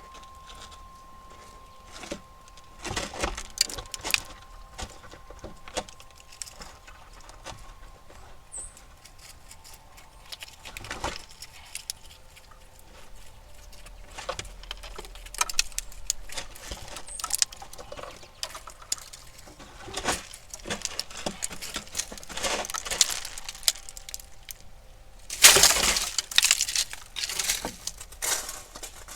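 Squirrels feeding at a platform feeder: irregular scratching, cracking and scrabbling of claws and teeth on nuts, seed and the feeder. The sounds come in uneven clusters, with a louder flurry near the end.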